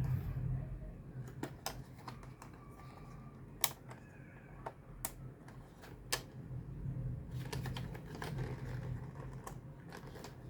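Light plastic clicks and taps, irregular and spaced apart, from a toy transformation belt and its parts being handled.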